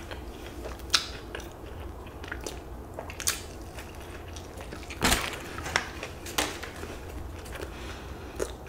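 Close-miked chewing of a spicy fried chicken sandwich: soft, wet mouth sounds with scattered crisp clicks, the loudest about five seconds in. A faint steady low hum runs underneath.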